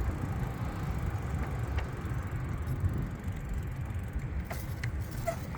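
Steady low rumble heard while riding a bicycle, with a few faint ticks.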